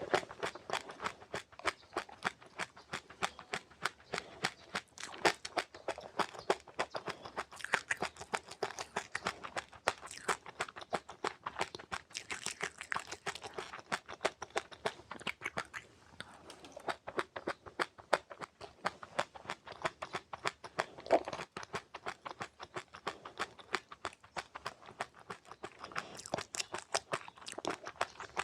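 Close-up chewing of seeds: many rapid, crisp crunches and crackles, several a second without a break.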